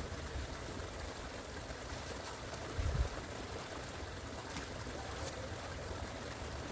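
Water running in a small garden stream, a steady rushing trickle, with a brief gust of wind buffeting the microphone about three seconds in.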